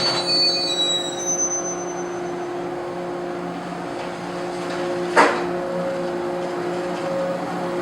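KuMoYa 143 electric railcar pulling away, a steady electrical hum with several held tones. Brief high-pitched squeals come in the first second or so, and a single sharp crack sounds a little past five seconds in.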